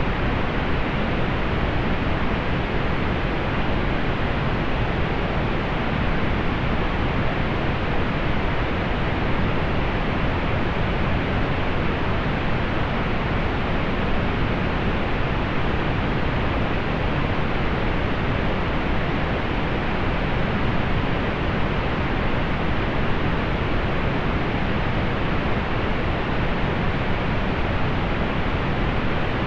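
Steady synthetic pink noise: an even, unchanging hiss, fuller in the low end, softened above the upper mids.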